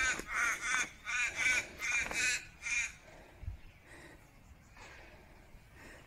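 A bird, crow-like, calling in a rapid series of short harsh caws, about three a second, that stops about three seconds in.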